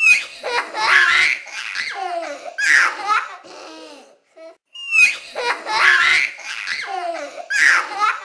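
Children laughing, the same short stretch of laughter heard twice in a row as a loop. Each pass opens with a brief high falling squeal.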